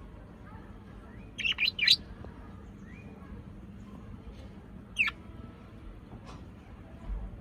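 A parrot giving short, sharp, downward-sweeping chirps: a quick burst of three about one and a half seconds in and a single chirp about five seconds in, over a low steady hum.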